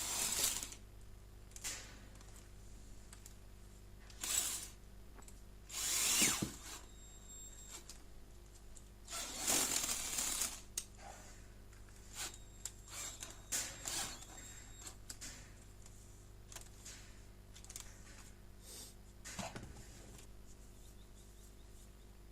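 Electric drill run in several short bursts, boring dust-extraction holes with a slightly larger bit through the foam pad of an orbital sander's base. The longest burst, about a second and a half, comes near the middle.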